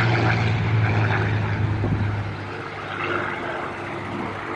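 Piston-engined propeller warbird passing overhead, its engine drone loud at first and fading away after about two seconds.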